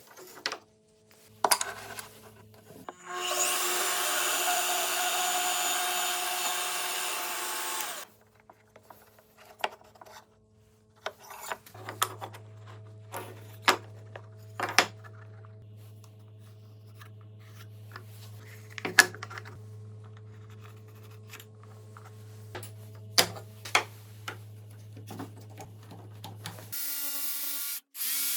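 Woodworking sounds: a power tool runs steadily for about five seconds, then wood and hand tools knock and tap on and off over a low hum, and a power tool starts up again near the end.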